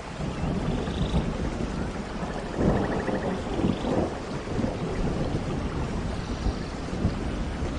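Rainforest thunderstorm: thunder rumbling over steady rain, swelling to its loudest about three seconds in, with faint trilling calls in the background.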